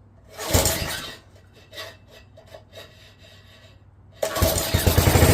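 Craftsman rototiller's small engine being pull-started on starting fluid. A short noisy burst about half a second in, then near the end the engine catches and runs with a rapid low firing pulse.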